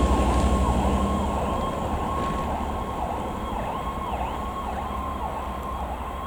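Fire truck's electronic siren on a fast yelp, sweeping down and back about twice a second, over the low rumble of the truck's engine, both slowly fading as it moves away.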